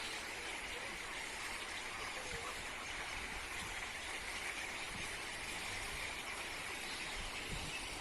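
Steady outdoor ambience: an even hiss with a continuous high-pitched din and no distinct events.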